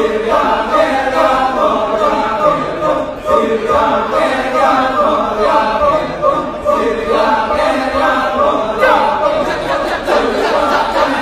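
Kecak chorus: a group of voices chanting and singing together without instruments, making a dense, continuous vocal texture.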